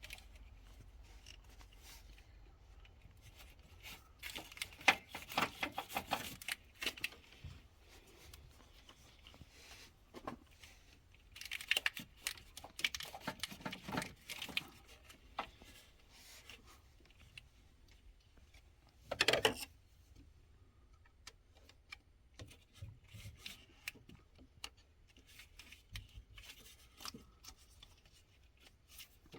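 Hands working on a car's starter wiring: bursts of rubbing, rustling and light clicks, with a short harsh scrape about nineteen seconds in as the loudest sound.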